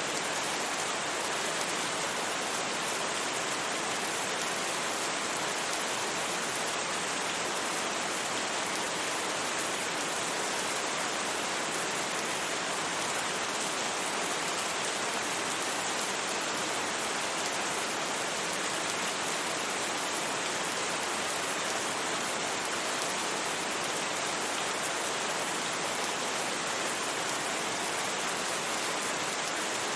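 Steady rain falling, an even hiss of many drops with no distinct patter or thunder.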